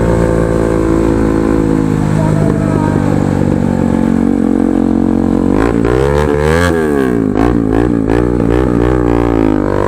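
Bajaj Pulsar NS 200's single-cylinder engine running through a loud aftermarket Akrapovic-style exhaust. It holds steady, then revs up and back down about six to seven seconds in, followed by a few sharp cracks.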